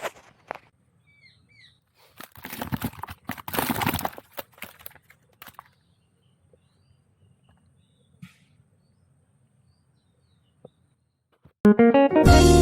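A few short bird chirps, then several seconds of loud rushing noise, then near-quiet outdoor ambience. Guitar music starts loudly near the end.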